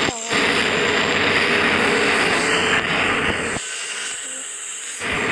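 Loud, steady rumble of a Philippine National Railways train running, with the low rumble dropping away briefly just after the start and again for over a second near the end.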